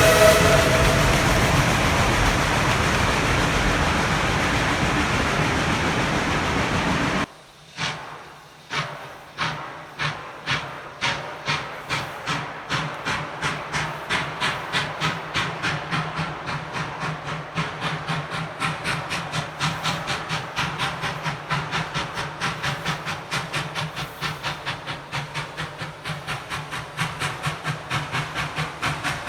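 A narrow-gauge steam locomotive's whistle fades out about a second in, followed by a steady loud hiss of steam that cuts off sharply about seven seconds in. The locomotive then starts away, its exhaust chuffs quickening from about one a second to about three a second.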